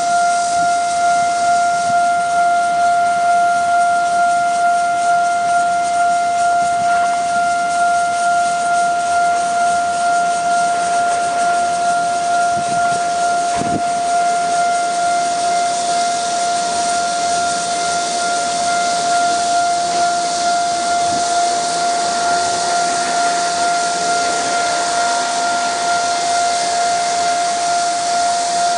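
Taiwan Railway level-crossing warning alarm sounding continuously, one steady high electronic tone with a slight regular pulse, signalling that a train is approaching and the barriers are down. A rushing noise builds in the second half.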